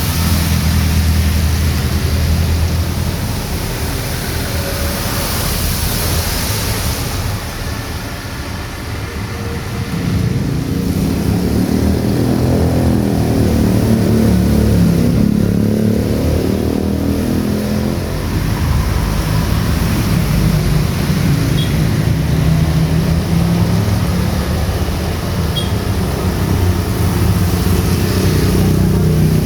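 Heavy rain falling steadily on a street, with motor vehicles driving past through it. Their engine drone swells and fades, heaviest through the middle.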